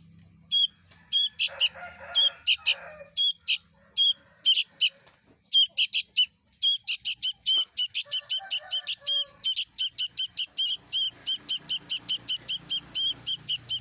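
Young bird chirping repeatedly in short, high-pitched calls, spaced out at first and then speeding up to about three or four chirps a second from about seven seconds in.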